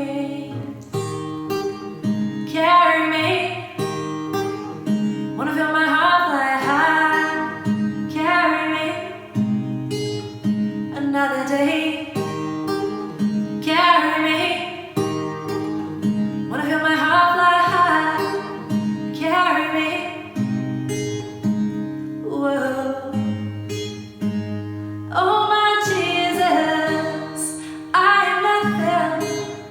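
A woman singing a slow song in long phrases, accompanied by guitar chords.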